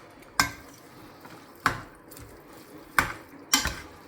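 A cooking utensil knocking against a pan four times, sharp clinks with a short ring, the last two close together.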